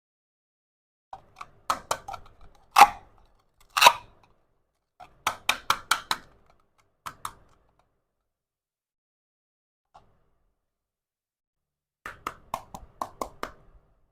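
Small clicks and taps of miniature toy kitchen pieces being handled and set down, in short clusters with quiet gaps. The two sharpest knocks come about three and four seconds in, and a quick run of light clicks comes near the end.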